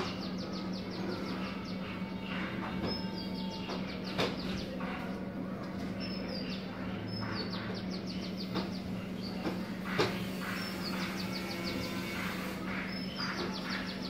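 Songbird singing: a short high note followed by a quick run of falling notes, repeated every few seconds, over a steady low hum, with a few sharp clicks.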